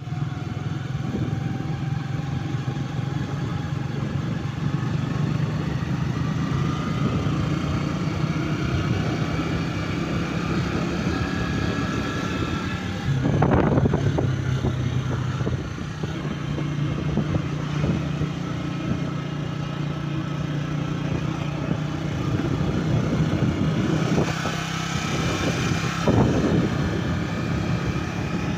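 An engine running steadily, briefly louder about halfway through.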